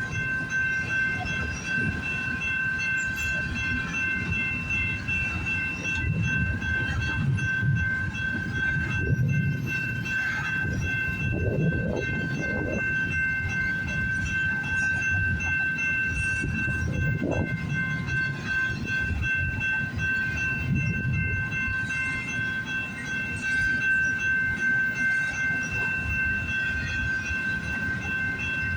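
Cars of a long intermodal freight train rolling past, a steady low rumble with irregular wheel knocks, over a continuous high-pitched ringing tone.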